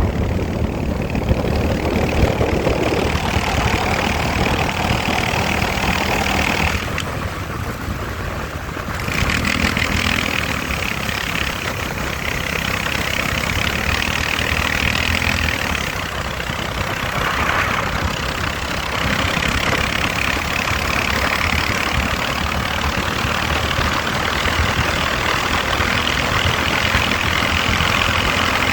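Motorcycle engine running steadily at a low, even speed, with a hiss that drops away briefly about a quarter of the way in and then returns.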